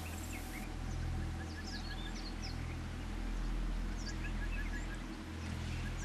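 Wild birds calling: scattered short high chirps and a quick run of about five small notes, heard twice, over a low, slowly swelling rumble.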